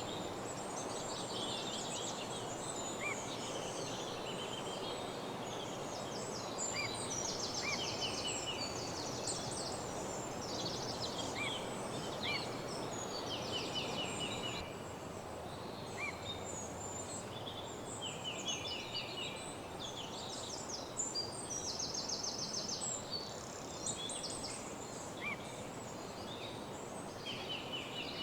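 Several songbirds singing at once, a chorus of overlapping trills and short repeated phrases, over a steady low rushing background noise.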